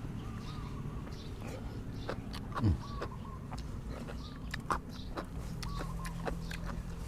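Close-up mouth sounds of eating papaya salad and grilled chicken: chewing with scattered sharp clicks and smacks, and a short low falling sound about two and a half seconds in. Faint short bird chirps repeat in the background over a steady low hum.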